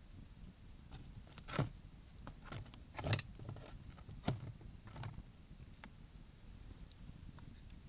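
Wood fire crackling: a few sharp pops from the burning wood, the loudest about three seconds in, with smaller ticks between them.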